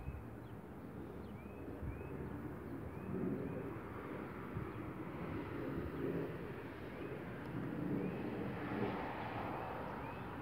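Low rumble of an approaching SEPTA Silverliner IV electric commuter train, swelling and easing a little. Over it, a bird repeats a short high chirp about every two-thirds of a second.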